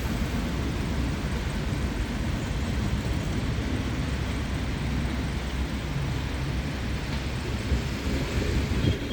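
Steady low rumble of an R142-series subway train running on the elevated structure.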